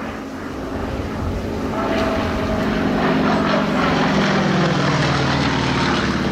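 A propeller aircraft flying past with its engine getting louder as it approaches, then the engine note dropping in pitch as it passes.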